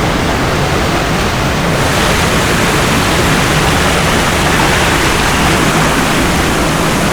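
Waterfall water rushing and splashing over rocks close by, a loud steady noise with no letup; it grows a little brighter and hissier about two seconds in.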